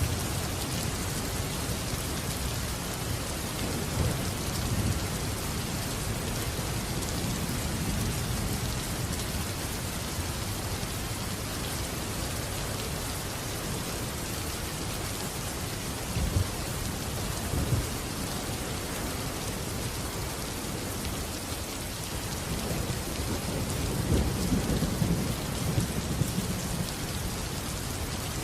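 Steady heavy rain with thunder rumbling low in the background, swelling a few times, most strongly near the end.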